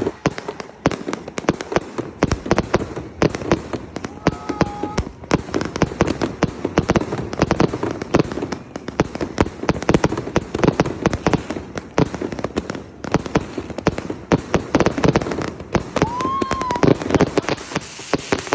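Fireworks and firecrackers going off in a dense, continuous barrage of overlapping bangs and crackles.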